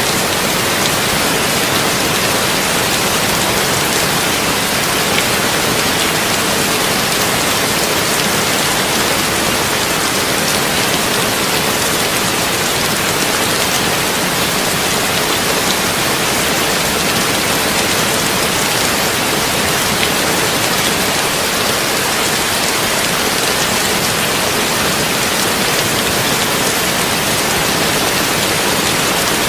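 Steady heavy rain on a tin roof, an even, unbroken hiss with no thunder.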